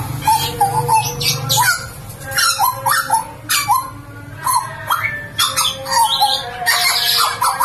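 A butcherbird (jagal papua) singing loudly: a rapid run of short whistled notes that slide up and down, mixed with harsh, scratchy notes.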